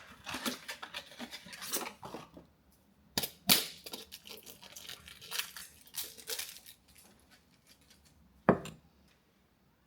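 Handling sounds of tools and parts: a run of small clicks, rustles and scrapes with a few sharp knocks, the loudest one near the end.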